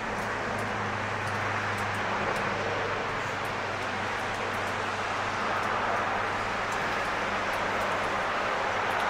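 Steady hiss of rain and wet snow falling through the trees, over a distant low vehicle hum that is strongest for the first few seconds and then eases. Faint scattered ticks are heard on top.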